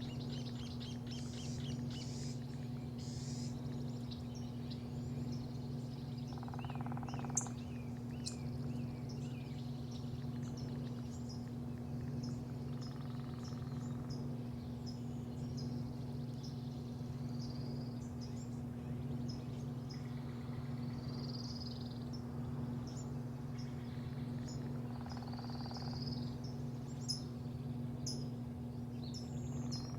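Birds chirping and trilling over a steady low machine hum.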